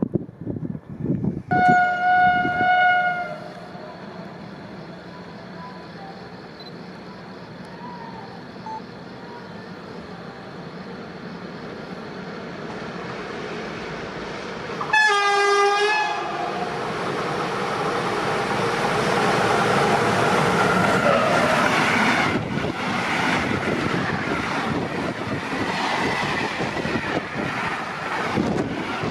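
Train horn sounding twice: a held blast near the start and a short one about halfway through. Then a train runs through the station, with wheel and rail noise building and staying loud.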